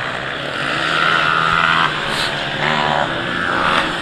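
Motocross bike engines running on the track, their pitch stepping up and down as the riders work the throttle.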